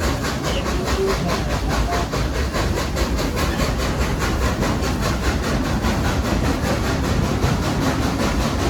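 Baldwin steam locomotive #70 working along with the train, heard from a passenger coach. Its exhaust beats evenly, about five strokes a second, over the steady rumble of the rolling coach.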